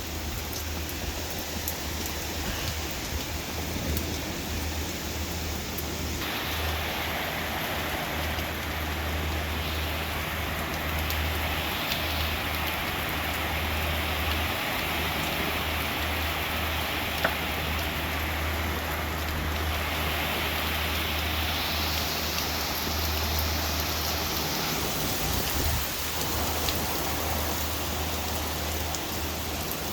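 Heavy thunderstorm rain falling steadily, over a low rumble. The rain grows heavier about six seconds in, and there is one sharp click near the middle.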